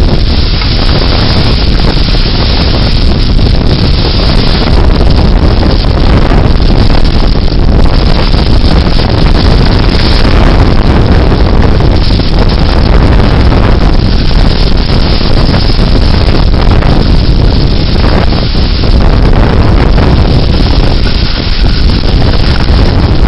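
Severe thunderstorm wind gusts buffeting the microphone: a loud, unbroken rush of wind noise, heaviest in the low rumble, surging and easing slightly without letting up.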